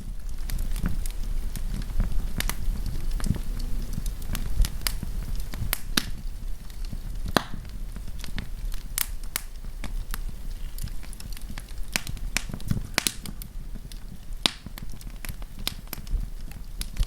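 Wood campfire crackling: sharp irregular pops and snaps, several a second, over a low steady rumble of the flames.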